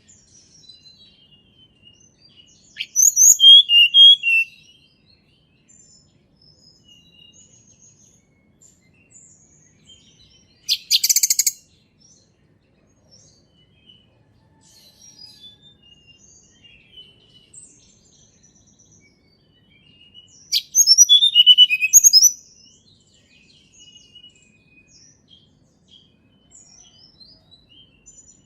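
A tledekan gunung bird singing in loud phrases of high, quick chirping notes, three times, with faint twittering between them. The middle phrase is short and harsh. This is natural birdsong played as a lure to get other tledekan singing.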